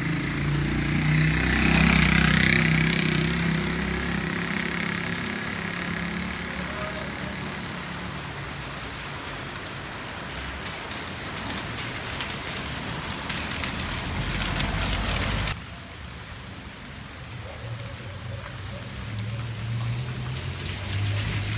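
Heavy rain falling steadily, with a motor vehicle passing on the wet street about two seconds in and another engine coming near the end. The rain noise drops suddenly about two-thirds of the way through.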